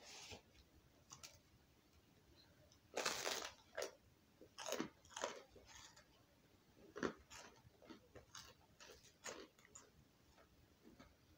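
A person biting into and chewing a crusty toasted French bread pepperoni pizza, with crunching of the crust. The loudest, longest crunch comes about three seconds in, followed by a run of shorter crunchy chews.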